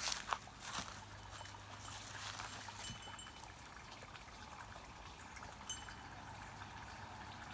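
Water trickling steadily, with a few light clicks in the first second.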